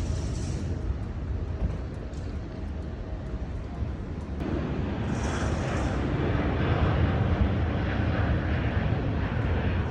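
Jet airliner engines rumbling. About four seconds in, a broad roar joins in and grows louder as the plane passes.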